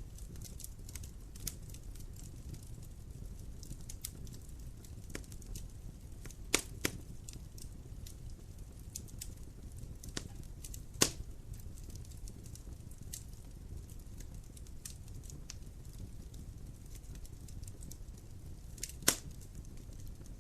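Wood fire burning in a fireplace: a steady low rumble of flames with constant small crackles and a few sharp, loud pops from the burning logs, the loudest about 11 seconds in and near the end.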